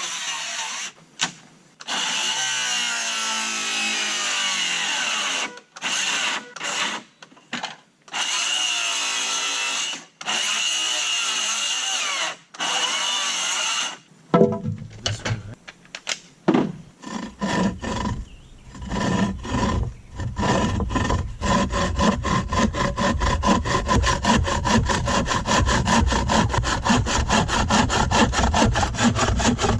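A power tool runs in several bursts of a few seconds each, stopping and starting abruptly. About halfway through, a handsaw starts cutting wood with quick, even strokes.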